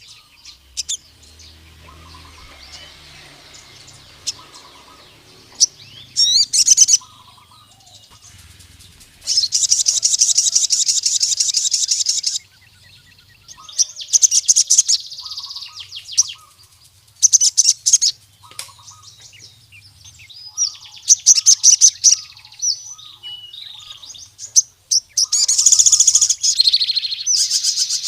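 A male sogon (ruby-cheeked sunbird) sings in the wild style used to call a rival male. Its song comes in bursts of rapid, high chirping trills separated by short pauses, and the longest trill lasts about three seconds near the middle.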